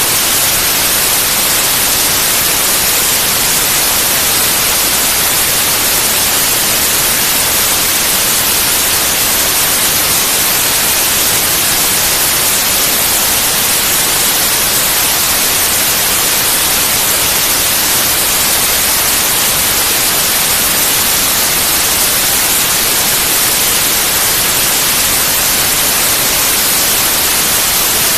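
White noise: a loud, steady hiss, even and unchanging, with most of its energy in the high frequencies.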